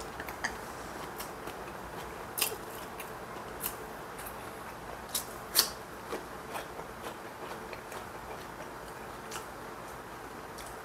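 Chewing a mouthful of crunchy fried pepper tempura: scattered sharp crunches and clicks, the loudest a little past halfway, over a steady low hiss.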